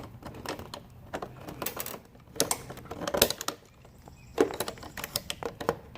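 Irregular clicks, taps and light rattles of things being handled, with no engine running.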